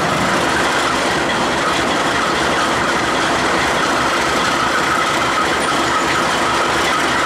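Diesel freight train led by a Ferromex locomotive rolling slowly past, a steady rumble of engines with the clatter of wheels on the rails.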